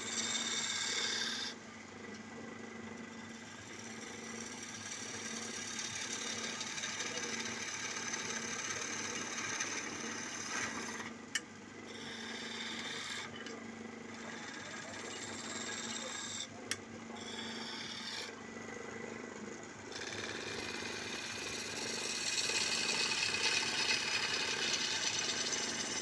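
Wood lathe running with a steady motor hum while a turning chisel scrapes and cuts the spinning wood, the cutting noise swelling and fading as the tool bites. There are two sharp clicks partway through.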